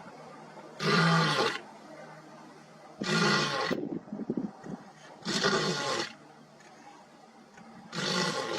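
Lion roaring: four calls about two seconds apart, each under a second long.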